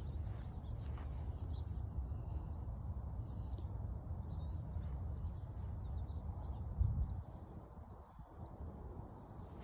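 Small birds chirping, many short high chirps repeating, over a steady low rumble that drops away about seven seconds in.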